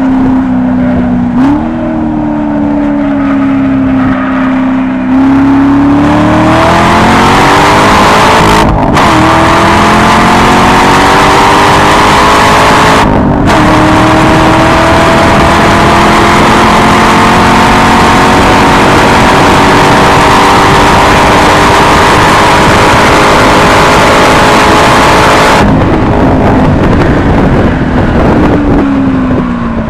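C6 Corvette Grand Sport's 6.2-litre LS3 V8 through an NPP exhaust pulling hard down a straight: at first a steady part-throttle note, then from about six seconds in it gets louder at full throttle and its pitch climbs steadily, broken twice by brief gaps as it shifts up a gear. Over the last few seconds the throttle lifts and the pitch falls.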